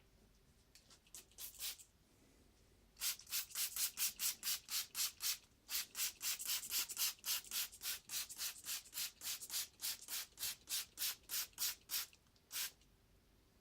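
Quick back-and-forth rubbing strokes on a surface, about four a second, like sanding or scrubbing. A few light strokes come first, then after a short pause a steady run of strong strokes lasting about nine seconds, and one last stroke near the end.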